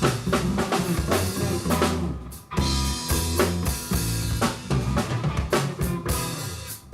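A band playing live with a full drum kit, kick and snare hits driving under sustained bass and chordal instruments. The band stops for a moment about two seconds in, then comes back in.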